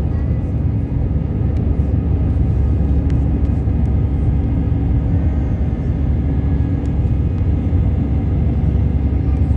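Jet airliner taking off from Gatwick: a steady, loud low rumble of engines and airflow with a faint constant hum.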